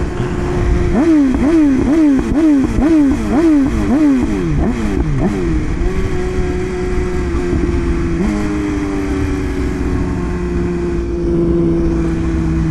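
BMW S1000RR inline-four sport-bike engine under way. About a second in, the revs climb and drop over and over, roughly twice a second, for several seconds. It then settles into a steady cruising note, with a change in engine pitch a little past the middle.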